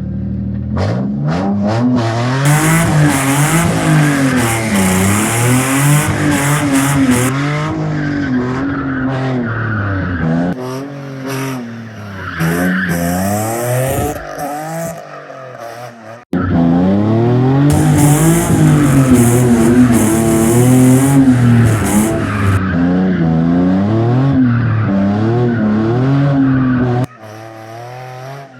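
A car drifting: the engine revs rise and fall over and over while the tires squeal. It breaks off sharply about halfway and starts again, then drops away suddenly near the end.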